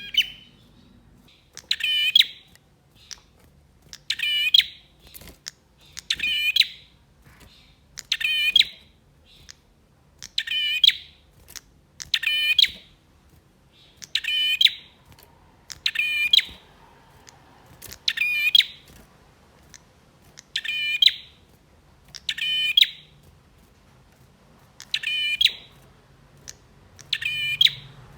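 Male prinia (prenjak) singing: a short, sharp call repeated steadily about every two seconds, thirteen times.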